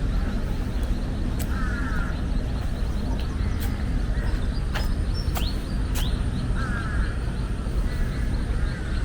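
Birds calling in open air: a few harsh, buzzy calls about half a second each, near the start and again near the end, with quick sharp chirps in the middle, over a steady low rumble.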